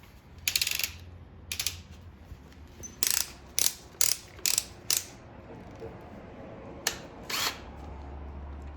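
A series of short, sharp ratcheting clicks in irregular groups, about nine in all: the keyless chuck of a cordless drill being turned and tightened onto a drill bit, readying the drill to bore a hole.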